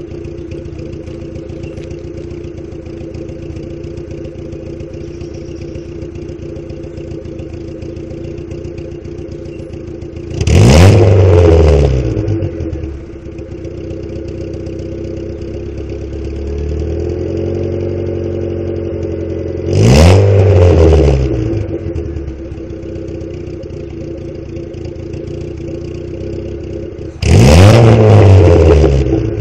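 1990 EF Honda Civic engine idling warm through a side-exit exhaust, blipped to low revs three times, about ten seconds apart, each rev rising quickly and falling back to idle within about two seconds.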